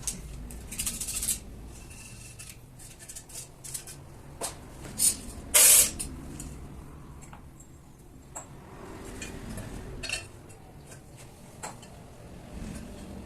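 Metal tools and parts clinking and knocking on a workbench, with two short hissing bursts, one about a second in and a louder one about five and a half seconds in.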